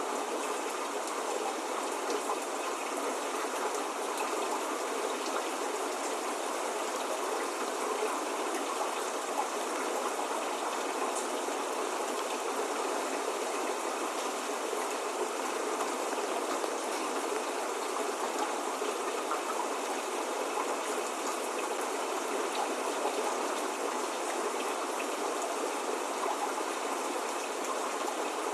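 Steady spring rain falling, an even continuous hiss with occasional single drops ticking through it.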